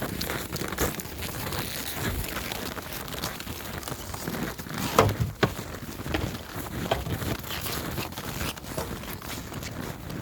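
Hooves crunching and squeaking on cold, packed snow as a hoofed animal walks, in irregular crunches. One louder crunch comes about five seconds in.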